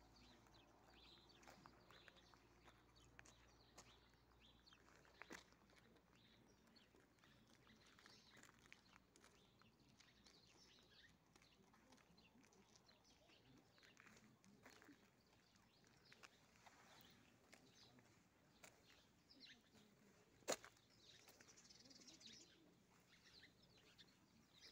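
Near silence, with faint scattered bird chirps. A few soft clicks, and one sharp click late on.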